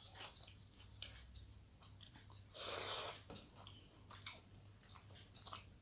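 Close-up eating sounds: mouth chewing of rice and curry with soft wet clicks and smacks, along with fingers mixing rice on a steel plate. About halfway through comes a louder rushing noise lasting under a second.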